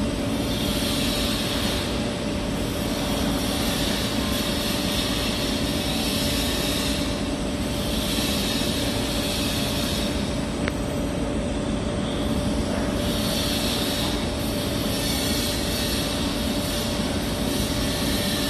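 TIG welding arc running steadily: a constant buzzing hum under a hiss that swells and fades every few seconds.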